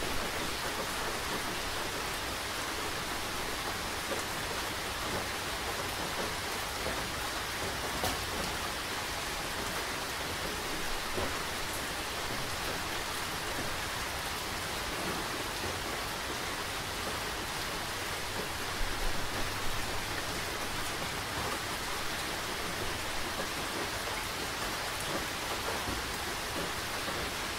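Steady rain falling, with a dense, even patter and scattered individual drops.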